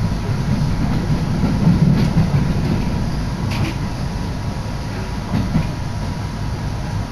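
Electric train running on the rails, heard from inside the passenger car: a steady low rumble of wheels and motors with a few short clicks as the wheels pass rail joints.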